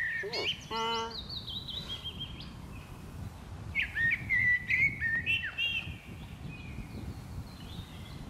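Songbirds singing: clear whistled notes and short trills, loudest in the first second and again around four to five seconds in.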